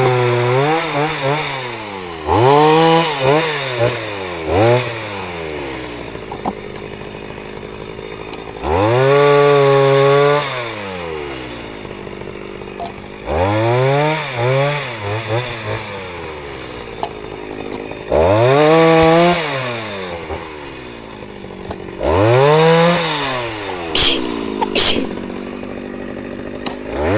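Two-stroke chainsaw revved up to full speed about six times, each burst lasting a second or two, and dropping back to idle between, as when bucking firewood. Two sharp clicks come near the end.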